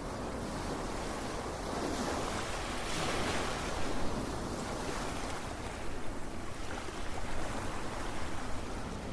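Ocean waves surging and washing in, a steady rush of surf that swells to a peak about three to four seconds in and then eases.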